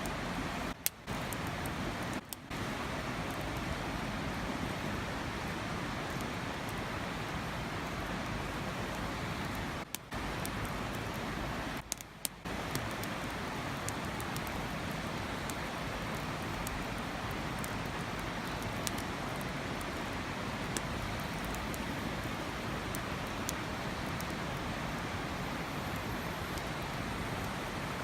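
Steady rushing outdoor noise, like running water or wind, with scattered small sharp clicks. It drops out briefly a few times, just before a second in and around ten and twelve seconds in.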